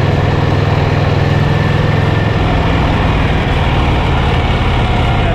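1979 Harley-Davidson FLH Shovelhead V-twin engine running steadily as the motorcycle and sidecar ride along, a loud, even low rumble.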